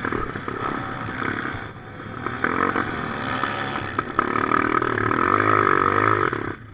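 Motocross bike engine running with its pitch rising and falling as the revs change, then cutting out abruptly near the end: the bike stalls, which the riders put down to running out of fuel.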